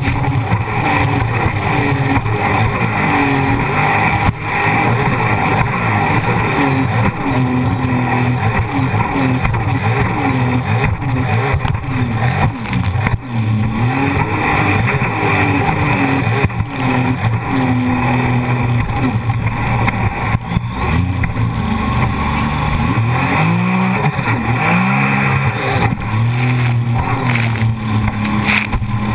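Jet ski engine running hard, its pitch rising and falling again and again as the throttle is worked, over a constant rushing noise.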